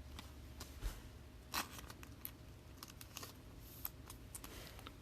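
Faint, scattered clicks and rustles of trading cards being handled, about eight small handling noises over the few seconds, the loudest about a second and a half in.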